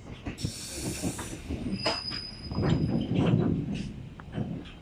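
Train running through the station: a short burst of hiss about half a second in, then a steady high-pitched wheel squeal from the rails with a low rumble that swells around the middle.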